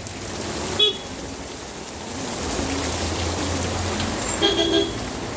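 Vehicle horn honking in short toots, once about a second in and twice in quick succession near the end, over steady rain and a motor vehicle's engine passing in the middle.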